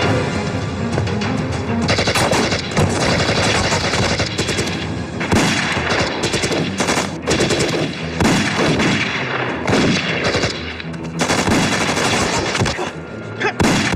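Gunfight: many gunshots in rapid, overlapping bursts, over dramatic background music.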